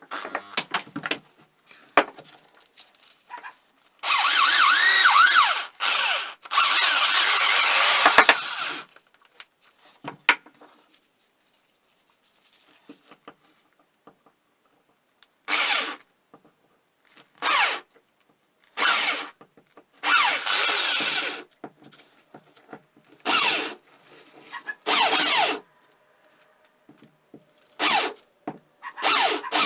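A handheld power tool run in bursts: two runs of about two seconds each, then a string of short pulses of about a second, with quiet gaps between them.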